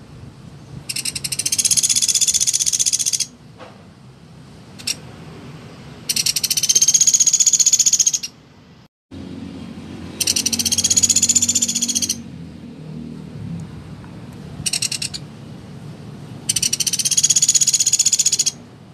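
Pelatuk beras woodpecker calling in fast, high-pitched rattling trills: four long trills of about two seconds each, with two short bursts between them.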